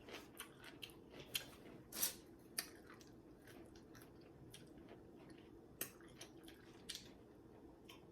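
A person chewing food: faint wet clicks and smacks of the mouth, many in the first three seconds, then a few scattered ones.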